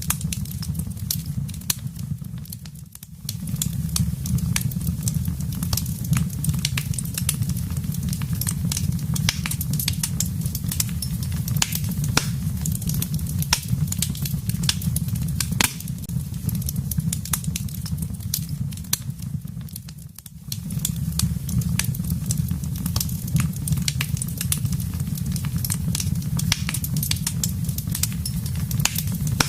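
Wood fire burning in a fireplace: a steady low rumble of flames with a constant scatter of sharp crackles and pops. The sound dips briefly about three seconds in and again about twenty seconds in.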